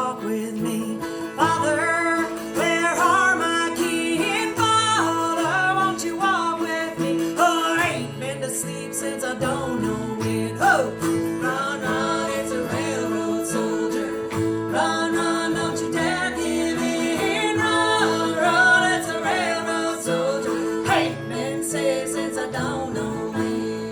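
Bluegrass band playing live: guitar and banjo picking under a melody line that bends in pitch, with bass notes moving in steps beneath. It plays steadily without a break.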